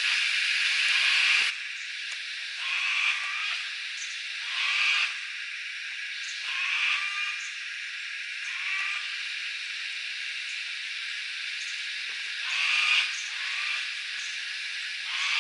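Steady high-pitched insect chorus, typical of cicadas, which drops sharply about a second and a half in and then swells in short pulses every second or two.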